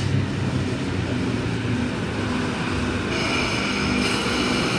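Sydney Trains K-set electric suburban train moving at the platform, a steady low rumble. About three seconds in, a high steady whine of several pitches joins in.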